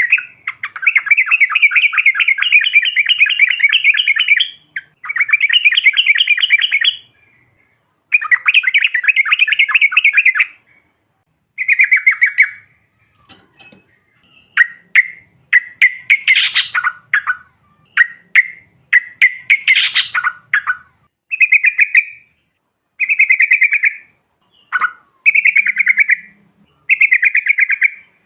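Yellow-vented bulbul singing its rolling song: long, rapid trilled phrases of several seconds each, then, from about halfway, shorter bursts of chattering notes with brief pauses between them.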